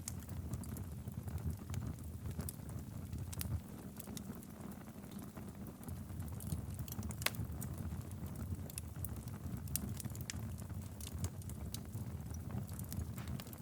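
Wood fire crackling in a fireplace: a steady low rumble with scattered sharp pops and snaps, one louder crack about halfway through.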